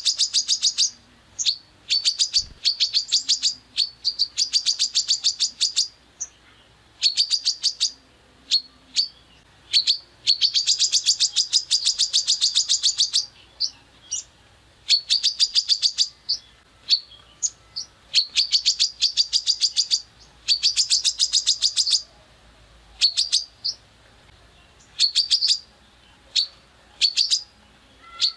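A songbird giving rough, rapid-fire 'tembakan' calls: strings of quick, sharp, repeated notes, each string lasting one to three seconds, broken by short pauses.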